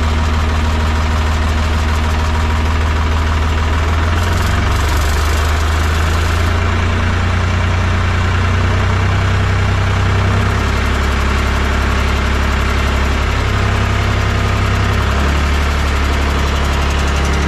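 Mahindra 3525 tractor's three-cylinder diesel engine idling steadily after a cold start, now running smoothly once warmed up for a few minutes. Its pitch shifts slightly a few times.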